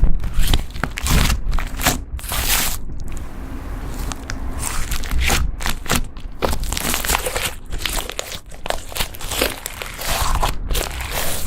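Slime being squeezed, poked and stretched by hand, giving irregular sticky crackles and squishy pops.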